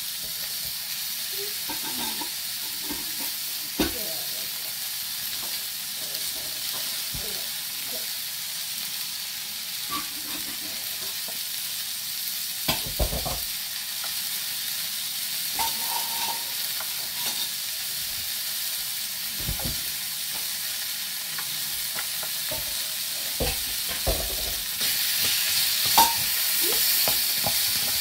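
Vegetables sizzling in a small metal camping pot as oyster sauce is drizzled over them, with a few sharp knocks and scrapes of a utensil against the pot. The sizzle grows louder near the end as the vegetables are stirred.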